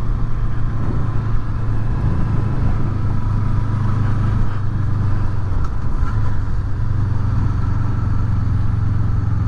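Honda VFR800's V4 engine running steadily under way, with wind and road rush over it. The pitch eases a little about six seconds in and then holds steady again.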